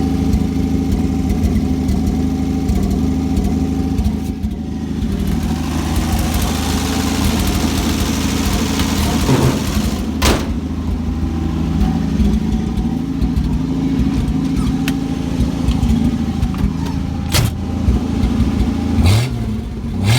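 Dodge 225 slant-six inline-six engine running loudly at a steady idle through a new exhaust pipe not yet fully attached, revving up briefly a couple of times, the second time near the end.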